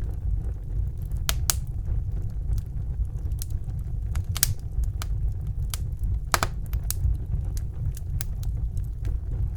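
Wood fire burning in a fireplace: a steady low rumble of the flames with irregular sharp crackles and pops, the loudest about six seconds in.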